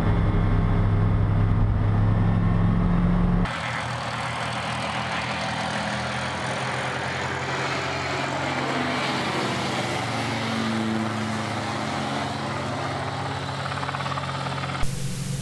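TL Sirius light aircraft's engine and propeller running. It is loud and steady for the first few seconds, then cuts abruptly to a more distant, noisier engine sound whose pitch slowly wavers, and changes abruptly again near the end.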